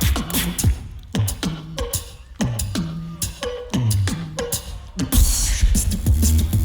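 Tag-team duo beatboxing a battle round: deep bass kicks that drop in pitch, with sharp snare and hi-hat clicks between them. About five seconds in, a heavy sustained bass comes in with a hissing burst on top.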